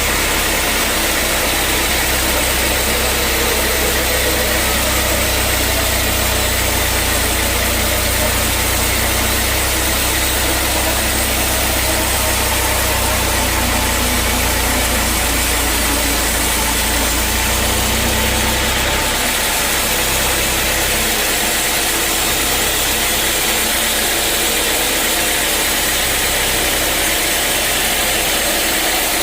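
Sawmill machinery running steadily: an engine's low hum under a broad, even hiss. The low hum drops away about two-thirds of the way through while the hiss carries on.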